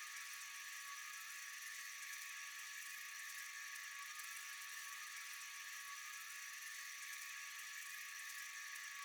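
Steady chorus of night insects such as crickets, a continuous high-pitched trilling without pauses.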